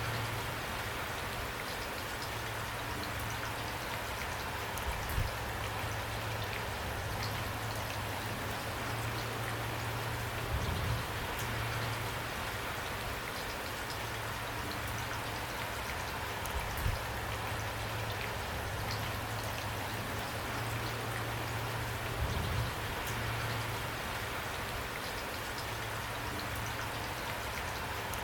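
Steady rain falling, with individual drops landing close by and a few brief louder spatters now and then.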